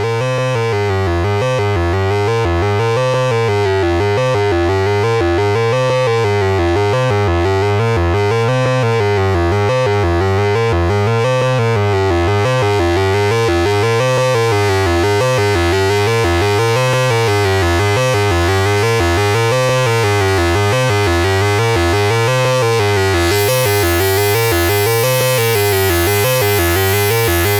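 Arturia Brute-series analog synthesizer playing a looping sequence over a steady low bass note, with a triangle-and-saw tone and a sub oscillator. The filter cutoff and resonance are adjusted by hand, and near the end the sound suddenly turns much brighter and buzzier as the filter opens.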